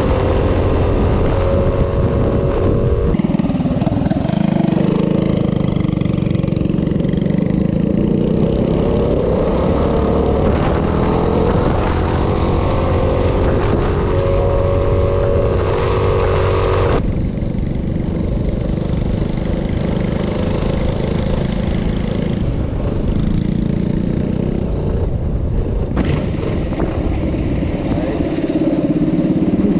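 Minibike engine running under throttle, its pitch rising and falling as it speeds up and slows down, with abrupt jumps in the sound every several seconds.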